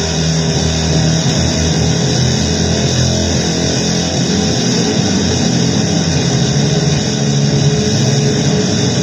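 Distorted electric guitar playing dense, droning blues-based noise music at a steady loud level.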